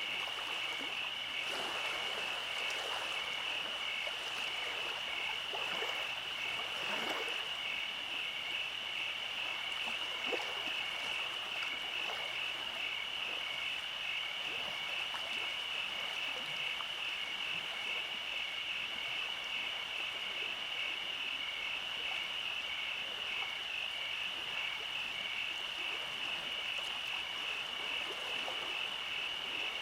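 Summer-night chorus of calling animals: a steady, high, rapidly pulsing trill throughout, with scattered shorter, lower calls mostly in the first half.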